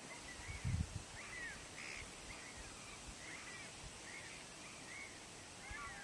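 Distant birds calling: short arched chirps, about two a second, over a steady outdoor hiss. A brief low rumble comes a little under a second in.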